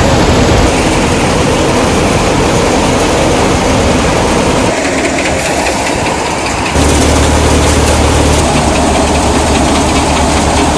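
Tractor engine running loudly and steadily under farm work. About two-thirds of the way through the sound changes suddenly to a stronger low hum.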